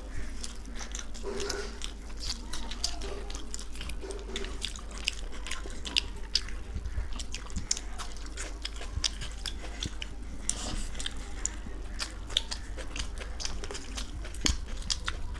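Close-up chewing and mouth sounds of people eating chicken biryani: many small wet clicks and smacks in an uneven stream, over a steady low hum.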